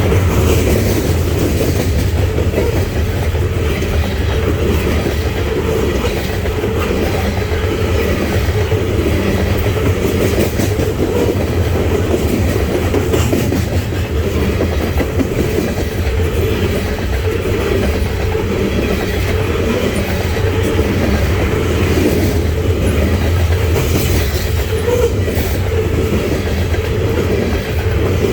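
The cars of a coal train rolling past, a steady heavy rumble with the wheels clicking over the rail joints.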